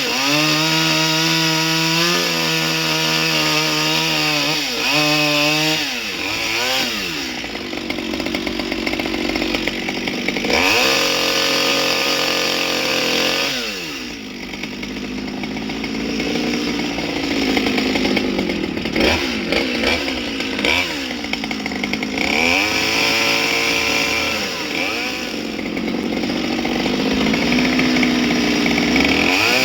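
Chainsaw carving wood, its engine revving up and dropping back again and again, so the pitch keeps rising and falling.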